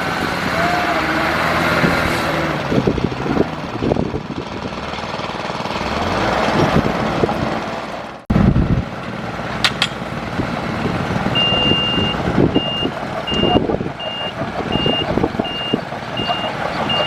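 Heavy earthmoving machinery running, a diesel engine with clanking, broken by an abrupt cut about eight seconds in. Then, about two-thirds of the way through, a reversing alarm starts beeping steadily at about two beeps a second.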